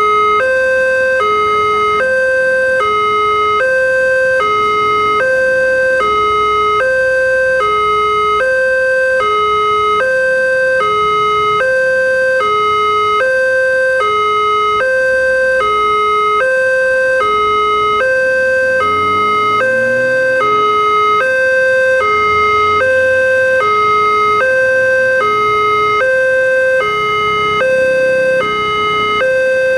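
Railway level-crossing warning alarm (a Multec TC crossing signal) sounding: an electronic two-tone alarm alternating steadily between a higher and a lower note, about one high-low cycle a second. It signals that a train is approaching and the barrier is closing or closed.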